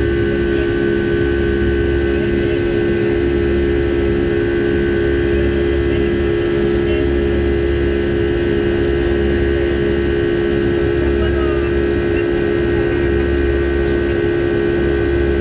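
Steady drone of a Boeing 757-200's engines and airflow heard inside the cabin, a constant rumble with a steady hum.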